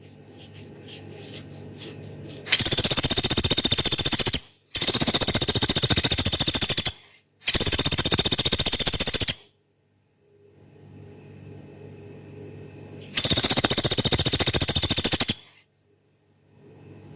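A pelatuk beras, a small woodpecker, giving four long, harsh, very fast rattling trills of about two seconds each: three close together, then one more after a pause of several seconds.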